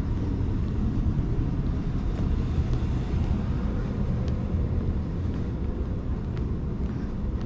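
Steady low rumble with a fainter hiss above it and a few faint ticks.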